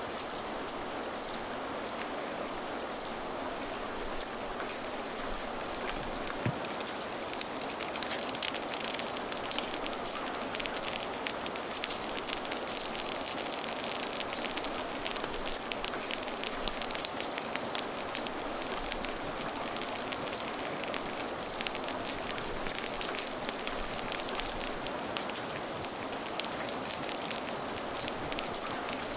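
Steady rain mixed with a crackling fire: an even hiss with many small sharp crackles and ticks scattered through it.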